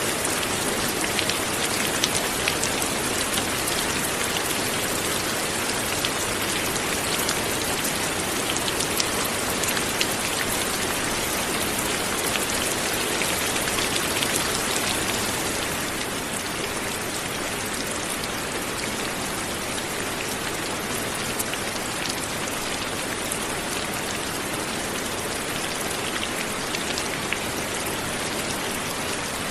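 Light rain falling steadily, with single drops ticking through the patter; it grows a little softer about halfway through.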